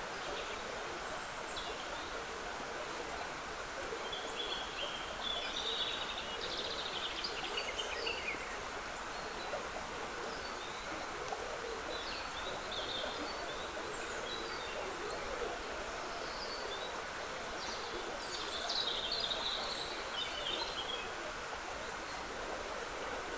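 Small woodland stream trickling steadily, with songbirds singing short bursts of high chirping phrases, busiest about five seconds in and again near the end.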